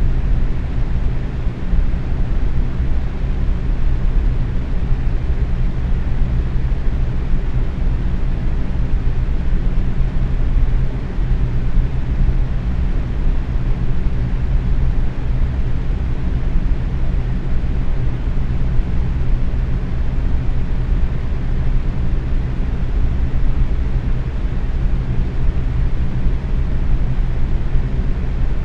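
Electric box fan running steadily at medium speed: an even whooshing rush of moving air with a low motor hum underneath.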